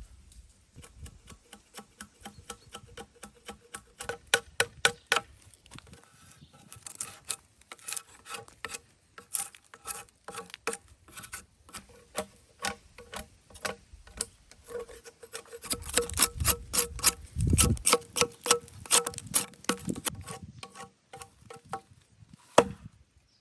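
A hand tool working wood: a quick series of sharp rasping strokes, about two to four a second, heaviest about four seconds in and again in the second half.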